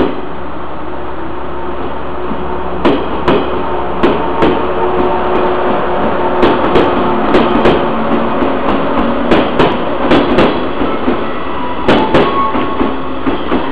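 JR 115 series electric train in all-over yellow livery passing close at low speed, its wheels clacking and knocking irregularly over rail joints and points, over a steady running hum.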